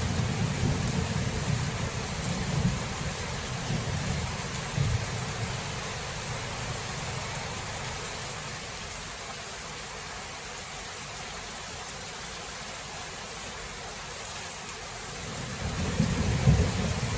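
Thunderstorm: steady rain hiss with a low rumble of thunder that dies away over the first few seconds, leaving rain alone, before another rumble of thunder builds near the end.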